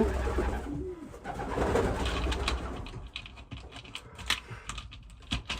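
Racing pigeons in a loft: a short coo near the start, then rustling and a scatter of sharp clicks from birds moving and being handled.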